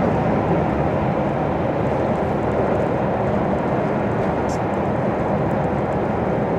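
Steady engine and road noise of a heavy goods vehicle on the move, an even rumble and rush with no changes.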